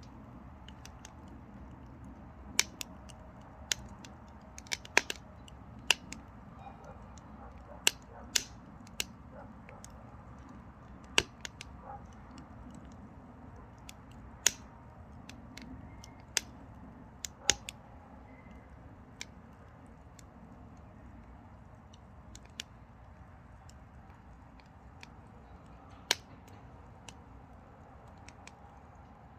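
Mini pine firewood burning in a small wood stove: irregular sharp crackles and pops over a low steady rumble of the fire. The pops come thick for the first half and thin out toward the end.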